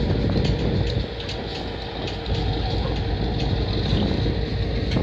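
Freight train of tank cars rolling slowly past, the wheels on the rails giving a steady low rumble with scattered clicks and a faint steady tone underneath.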